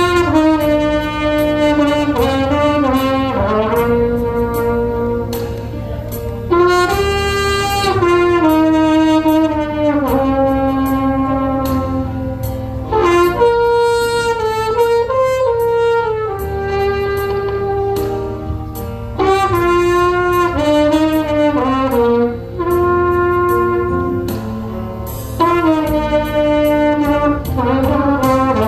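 Solo trumpet playing a slow trot melody in phrases of a few seconds with short breaths between, over a recorded backing track with a steady bass.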